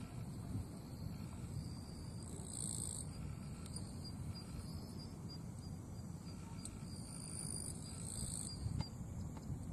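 Insects buzzing in short high-pitched bursts in summer grass, one burst a few seconds in and two more near the end, with a run of faint even ticks in between over a steady low rumble.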